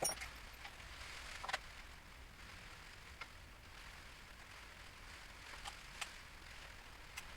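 A few scattered light clicks and knocks over a faint steady hiss: small engine parts and hand tools being handled and fitted.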